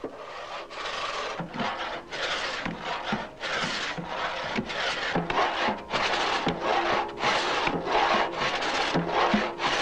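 Two-man pit saw ripping a hewn oak log lengthwise, the long blade rasping through the wood in a steady rhythm of strokes, about two a second, each with a low knock.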